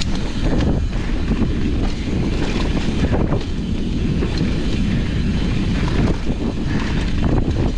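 Wind rushing over the microphone while a downhill mountain bike rolls fast down a dirt trail, with scattered knocks and rattles from the bike over the bumps.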